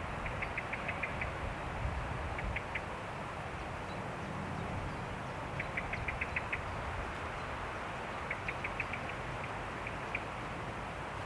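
Steady wind noise in a forest, with a bird calling in quick runs of short high notes several times, and a few single notes near the end.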